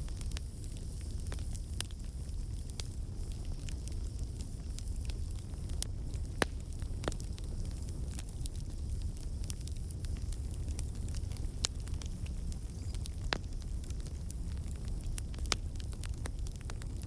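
Wood campfire burning: a steady low rush of flame, with sharp pops and snaps from the logs every second or two.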